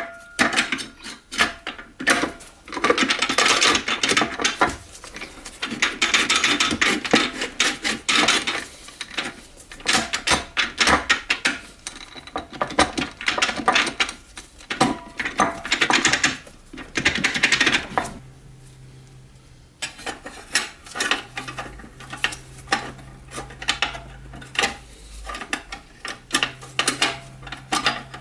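Metal transmission parts clinking and scraping as they are handled, in bursts with a short lull about two-thirds of the way through, then lighter clicks.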